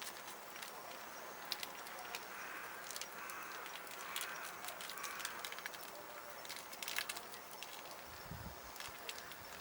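Wood fire crackling in a small folding fire stand: a steady soft hiss with scattered sharp pops and clicks, and a dull low thump near the end.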